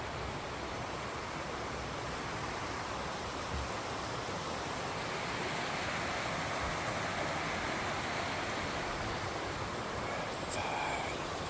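Steady rushing noise, growing a little louder about halfway through, with a brief faint higher sound near the end.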